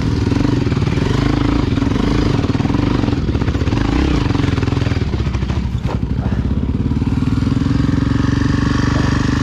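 Single-cylinder four-stroke engine of a Honda XR Tornado trail bike running under load off-road, its revs rising and falling. The engine drops briefly about six seconds in, then holds a steadier, higher pitch.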